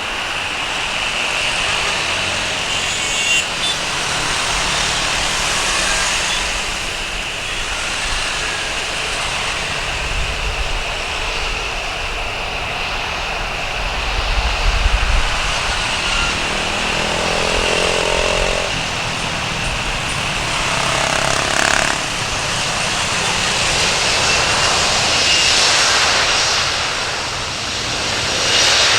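Jet engines of a Boeing 737-300 running: a steady rushing noise with a thin, high, even whine on top and a few brief low swells.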